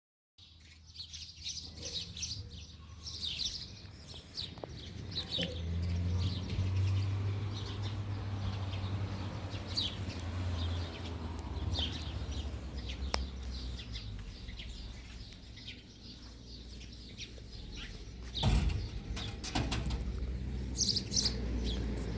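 Small birds chirping repeatedly over a steady low hum, with a brief thud about eighteen seconds in.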